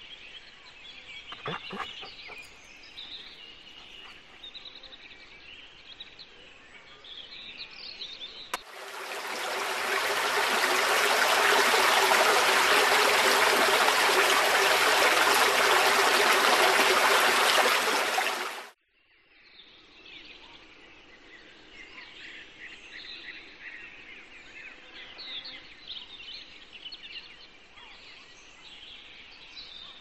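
Birds chirping and twittering. About nine seconds in, a loud, steady hissing noise takes over for about ten seconds and stops suddenly, and then the chirping returns.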